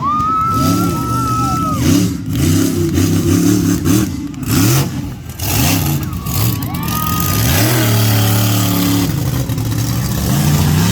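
Monster truck engine revved hard in quick repeated blips, then held at a steady high rev near the end, with a high whine over it at times.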